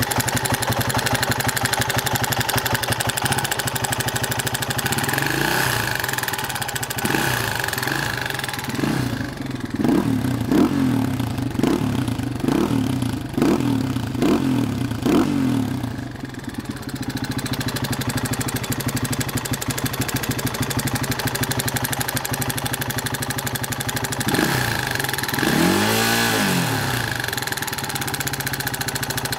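Masai A450 quad's engine idling, with a run of short throttle blips about nine to fifteen seconds in and one more rev near the end.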